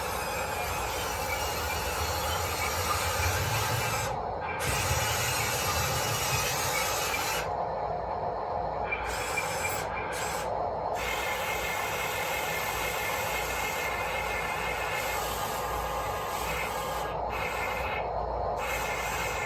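Electric motors and plastic-and-metal gearboxes of RC construction models running under load: a steady whine with rubbing, ratcheting gear noise. The high whine briefly cuts out several times.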